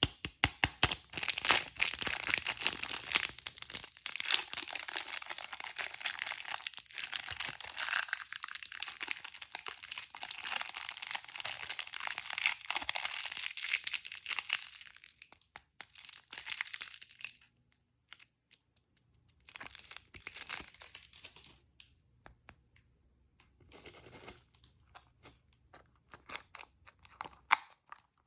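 Candy wrapper being torn open and crinkled. The crackle is dense for about the first fifteen seconds, then thins out into short separate bursts of crinkling.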